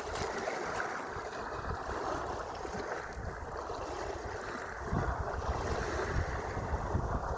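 Sea waves washing steadily, with wind buffeting the microphone in low rumbles that grow stronger about five seconds in.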